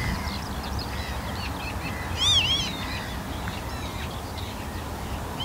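Wild birds calling over a low rumble of outdoor background noise: scattered short chirps, with a louder pair of arched, rise-and-fall call notes about two seconds in.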